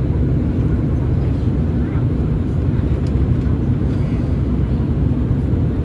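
Steady low rumble of an Airbus A319's twin jet engines, holding an even level throughout.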